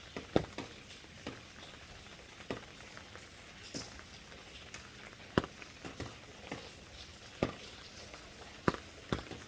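Rain: a steady light hiss with large drops landing irregularly as sharp ticks, one every second or so.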